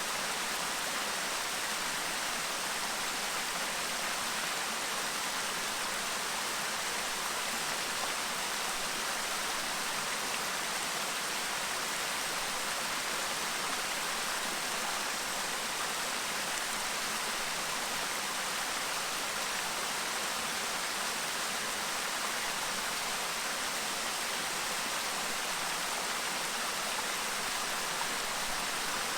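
Clear stream babbling over its bed: a steady, even rush of running water with no breaks.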